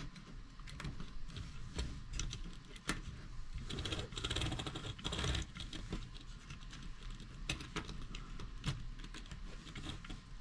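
Scattered small clicks and taps of a model railroad car being handled and fitted onto the track, with a longer scraping rustle about four seconds in.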